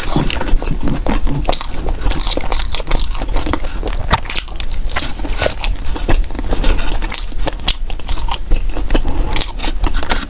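Close-miked chewing and biting of food, with many small sharp clicks and crackles coming irregularly throughout.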